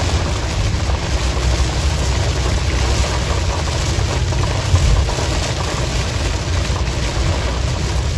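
Strong storm wind buffeting the microphone: a steady, loud rushing noise with a heavy low rumble.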